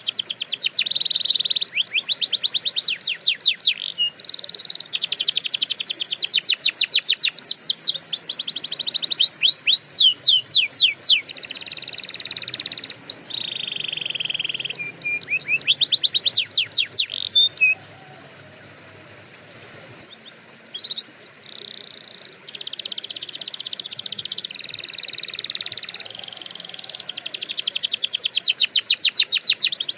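Domestic canary singing: long rolling trills of rapidly repeated notes alternating with fast runs of sweeping notes. About two-thirds of the way through, the song drops to a few scattered chirps for several seconds, then the trills resume.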